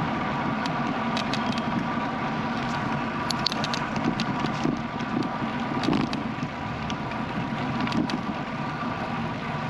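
Bicycle riding on a paved road: steady tyre and road noise with wind on the microphone, and scattered sharp ticks and rattles, thickest around three to four seconds in.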